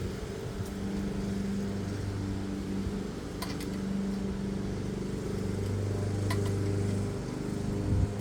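Petrol lawn mower engine running, its hum rising and falling as it works. A couple of light clicks about three and six seconds in.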